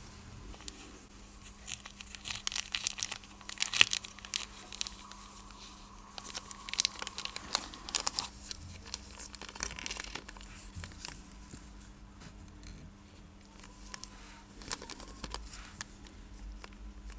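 Workbench handling noise during watch repair: irregular small clicks, taps and crinkly scrapes, densest about two to four seconds in and again around six to eight seconds, then sparser and fainter.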